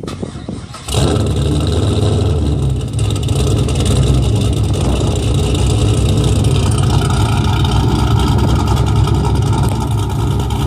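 2006 Pontiac GTO's LS2 V8 with an aftermarket cam, cranking on the starter and catching about a second in, then idling loud with the uneven lope of the cam.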